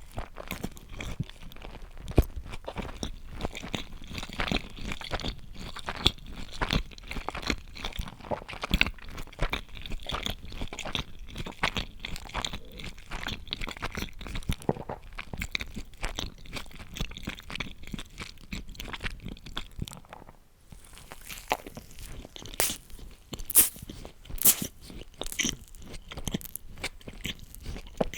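Close-miked chewing and crunching of food, with irregular crisp crunches throughout. There is a brief lull about two-thirds of the way through, followed by a run of sharper crunches.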